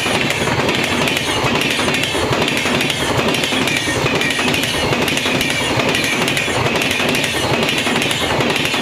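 Passenger train running past at full speed: a steady, loud rush of coaches with the wheels clattering rhythmically over the rail joints.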